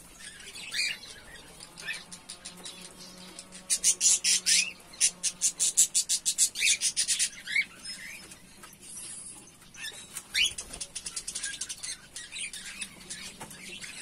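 Cage birds chirping in short calls, with a dense run of rapid fluttering clicks from about four to seven and a half seconds in.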